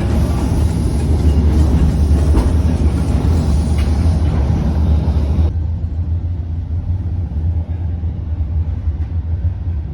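Passenger train running, heard from inside the carriage: a steady low rumble with light clatter. The higher hiss drops away abruptly about halfway through.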